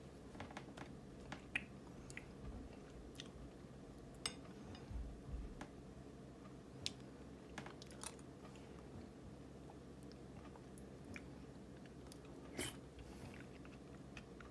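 Person chewing soft, thawed frozen persimmon with deliberately loud, wet lip-smacking, with a few sharp clicks scattered through.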